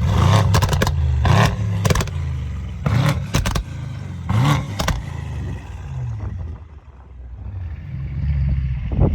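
Mercedes-AMG GT63 S twin-turbo 4.0-litre V8 running through catless downpipes and a Capristo exhaust, revved in blips, with a run of sharp pops and bangs from the exhaust in the first half. It then settles lower before climbing again near the end.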